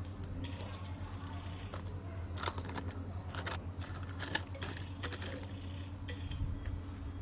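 Plastic toy trucks being handled and knocked together: irregular small clicks and clacks with brief scraping, over a steady low hum.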